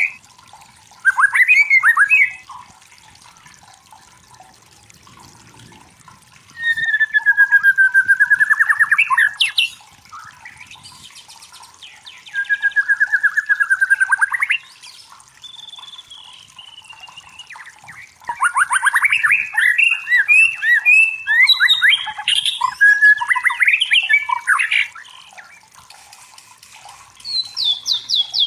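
White-rumped shama (murai batu) singing in separate loud phrases of rapid repeated notes and slurred whistles, with pauses of a few seconds between them and a longer, more varied run past the middle.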